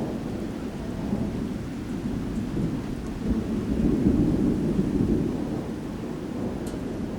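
Thunder rumbling, swelling to its loudest about halfway through and then dying down, with rain falling.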